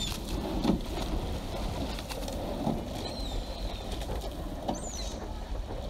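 A few short, high bird calls over a steady low rumble: one at the start, one about three seconds in and one near the end.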